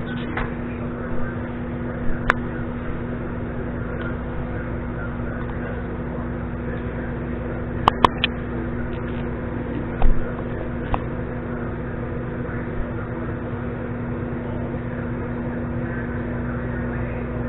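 Microwave oven running with a steady hum while a bar of Ivory soap heats inside, with a few short clicks along the way.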